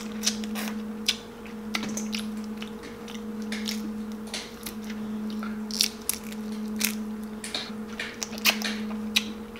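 Close-up wet chewing and mouth smacking of crab meat, with irregular sharp clicks and crunches as the crab shell is pulled apart by hand. A steady low hum runs underneath.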